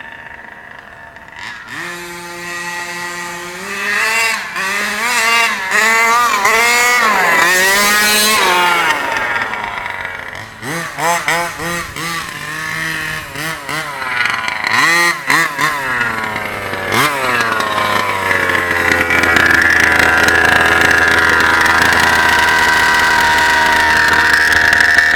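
36cc Rovan two-stroke engine of a Losi 5ive-T RC truck with a new 8k clutch, revved repeatedly so its pitch rises and falls, then held at a steady high speed for the last several seconds.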